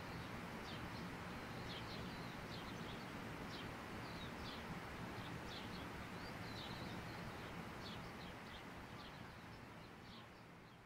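Small birds chirping again and again over a steady outdoor background hiss, which fades out near the end.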